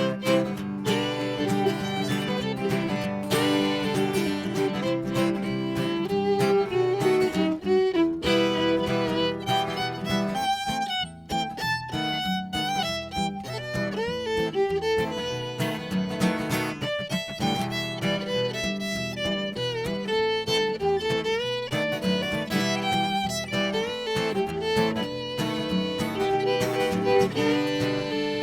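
Instrumental break in a live acoustic folk song: a fiddle plays the melody with sliding notes over strummed and picked acoustic guitar.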